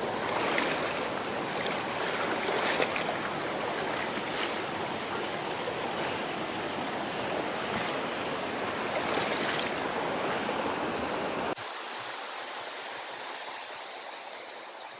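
Rushing water of a small jungle waterfall and its stream, a steady dense hiss. About eleven and a half seconds in it drops suddenly to a thinner, quieter water sound that fades down.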